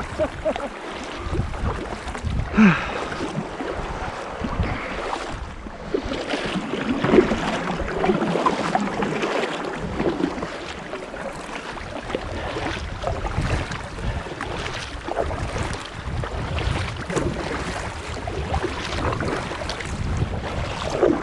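Kayak paddles dipping and splashing in the sea in irregular strokes, with wind buffeting the microphone in a low rumble.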